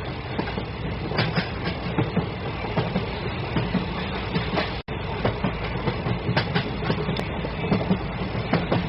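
Train running on the rails, wheels clattering irregularly over the track with a steady rumble. The sound cuts out for an instant about halfway through.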